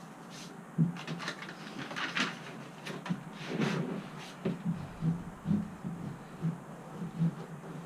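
Irregular clicks, knocks and scraping from something being handled, then a run of soft thumps about twice a second.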